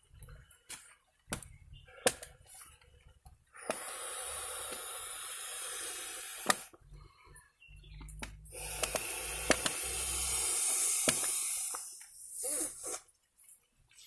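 Plastic bivvy bag rustling and crinkling as pillows and gear are handled, in two longer stretches, with scattered clicks and knocks in between.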